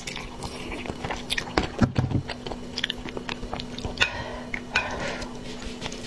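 Close-miked chewing and wet mouth sounds of a person eating noodles in sauce, with many small sharp clicks and smacks. There is a louder low thump just under two seconds in, over a faint steady hum.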